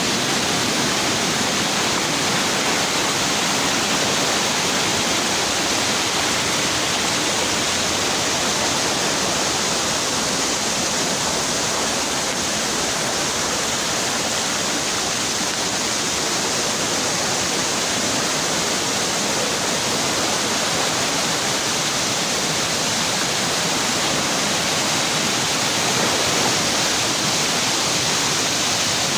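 Waterfall's falling water rushing in a steady, unbroken hiss, strongest in the upper range.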